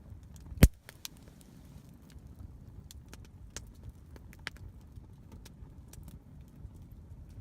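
Wood campfire crackling, with scattered sharp pops and one much louder crack about half a second in, over a low steady rumble.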